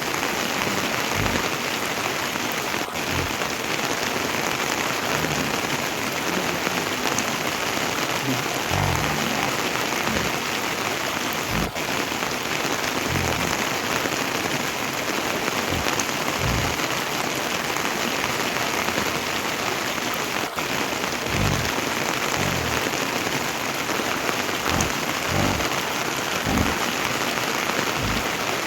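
Heavy rain falling steadily, with scattered low thuds at irregular moments.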